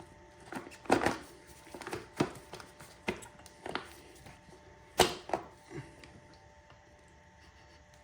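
Parts on a small dirt bike being handled and worked loose: a string of irregular clicks and knocks, the sharpest about five seconds in.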